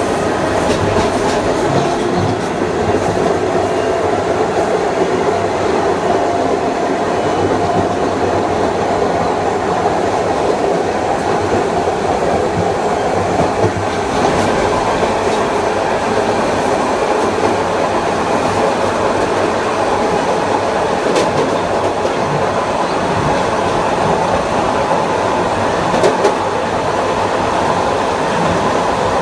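Kawasaki M9 electric multiple unit in motion: its Mitsubishi (MELCO) IGBT-VVVF inverter and AC traction motors give steady whining tones over the rumble and clatter of the wheels on the rails. One tone fades over the first half and a higher one strengthens near the end, with a couple of sharp clicks along the way.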